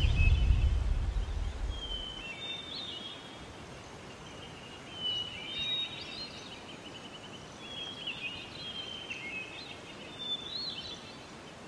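Outdoor ambience: a bird calls four times in short chirping phrases, every two to three seconds, over a faint steady hiss. A low rumble fades out over the first two seconds.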